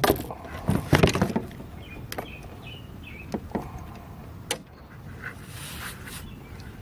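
Knocks and clicks of a just-landed bass and tackle being handled in a kayak, a quick run of them in the first second and a half, then scattered ones, with a short rush of noise near the end.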